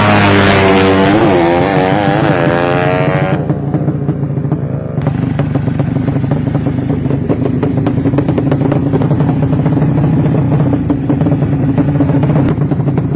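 A drag-racing motorcycle engine revving hard, its pitch climbing and wavering for about three seconds, then stopping abruptly. After that a motorcycle engine idles steadily at a low pitch.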